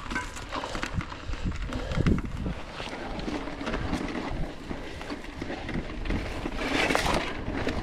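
Mountain bike riding over a dirt trail: tyres crunching on dirt and the bike rattling over bumps, with a harder knock about two seconds in.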